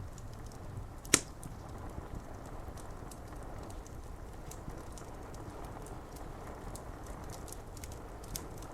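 Fire crackling with scattered small ticks and one loud, sharp pop about a second in, over a steady hiss of rain on window glass.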